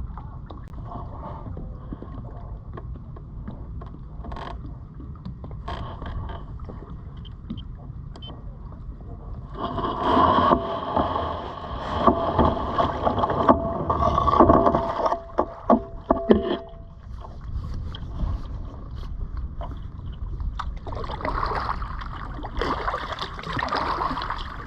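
Kayak being launched: a louder spell of rubbing and knocking from about ten to seventeen seconds in, with several sharp knocks near its end. Low wind rumble on the microphone runs underneath.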